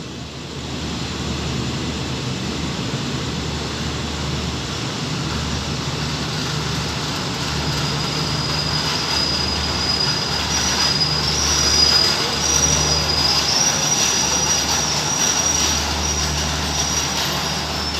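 Passenger train drawing in to a station platform, its wheels rumbling on the rails. From about nine seconds in, high, thin wheel squeal comes and goes as the train slows to stop.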